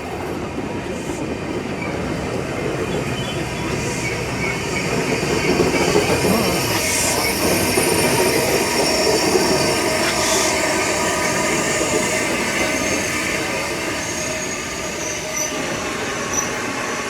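Passenger train pulling into a station platform: rumbling steel wheels on the rails with high squeals as it brakes. It grows louder through the middle and then eases off.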